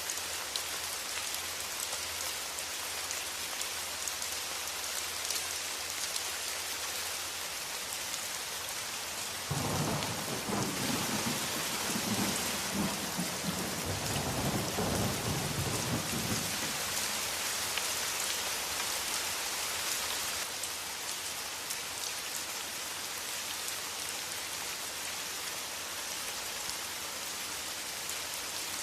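Steady rain hiss. About a third of the way in a low rumble of thunder starts suddenly and rolls for about seven seconds before fading back under the rain.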